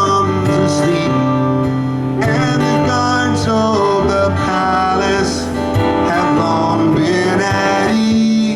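Live band music, with guitar prominent and no lead vocal.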